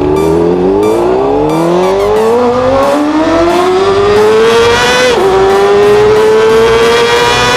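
Motorcycle engine accelerating hard, its pitch rising steadily, then dropping sharply at a gear change about five seconds in before holding high in the next gear.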